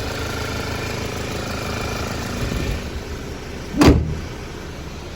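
Audi A4 engine idling steadily, with one loud thump about four seconds in.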